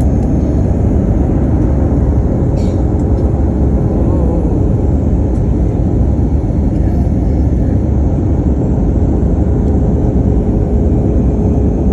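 Steady low rumble of a jet airliner's cabin in flight, with a faint steady hum running through it.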